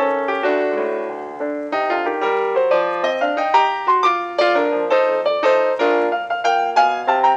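Solo piano music in a quick, busy run of notes, as silent-film accompaniment.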